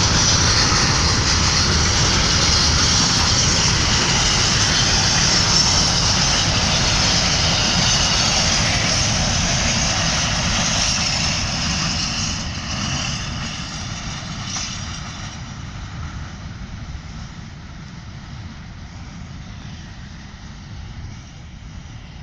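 Container freight train wagons rolling past, steel wheels running on the rails with a steady rumble and a high hiss. About eleven seconds in, the last wagon passes and the sound fades away as the train recedes.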